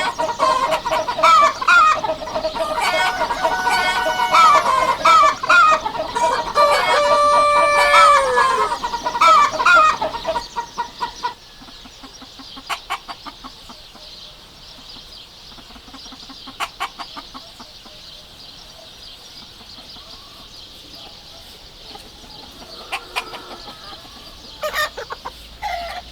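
A flock of chickens clucking loudly, with a rooster crowing, for about the first ten seconds. After that the clucks thin out to scattered short calls over a steady hiss.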